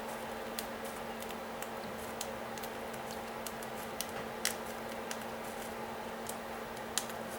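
Irregular light clicks and taps, one every half second or so, with a few louder ones, over a steady low hum.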